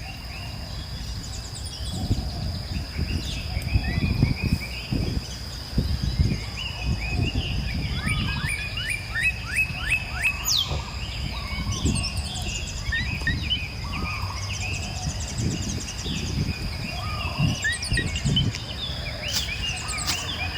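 Several birds chirping and calling in quick short notes over a steady high-pitched insect drone, with dull low rumbles coming and going.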